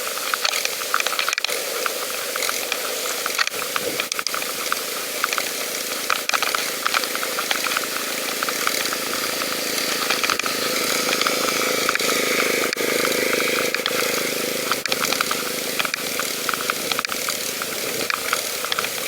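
Sound of riding a pedal bike: a steady hiss of wind and tyre noise, broken by many irregular clicks and rattles from the bike over the path.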